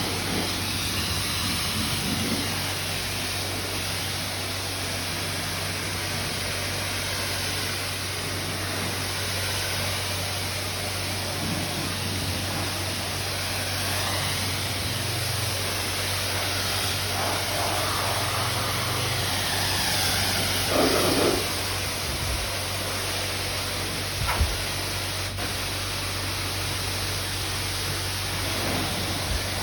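High-pressure rinse water from a self-serve car wash wand spraying onto a van's bodywork: a steady hiss of spray over a low steady hum, with a brief louder patch about two-thirds of the way through and a single knock soon after.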